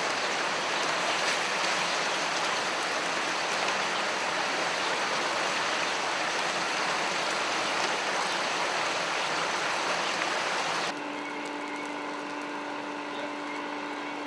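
Steady rushing water, which cuts off abruptly about eleven seconds in. A quieter steady hum with a held low tone follows.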